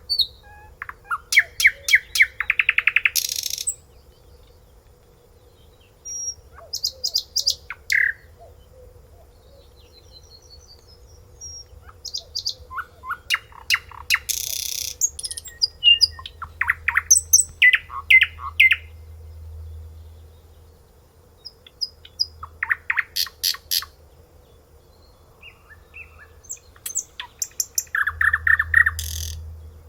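A songbird singing in separate phrases of rapid repeated notes and trills, with pauses of a few seconds between phrases.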